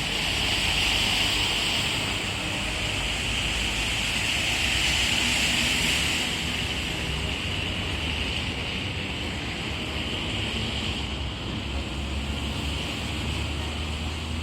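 Steady rushing of water with passing traffic, a little louder for the first six seconds, over a low rumble.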